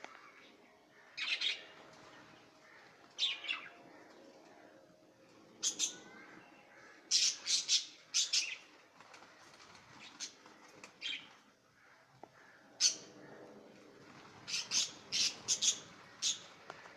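Australian parrots calling: short, sharp chirps and squawks, often in quick runs of two to four, coming every second or two.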